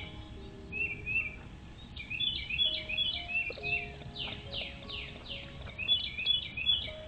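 Birds chirping in quick runs of sharp, downward-sweeping chirps mixed with short high chirps, repeating throughout. Soft held background-music notes sound underneath.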